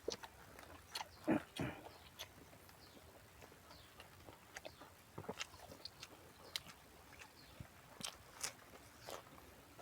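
Close-up eating sounds: a person biting and chewing, crunching fresh raw vegetables, in short wet clicks and crackles with two louder bites about a second and a half in.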